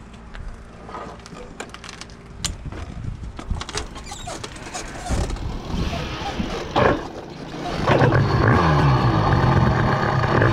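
Two-stroke Minarelli vertical engine on a motorized bicycle. Several seconds of clicking and rattling with a short loud burst near seven seconds in, then the engine runs from about eight seconds in, its pitch wavering up and down.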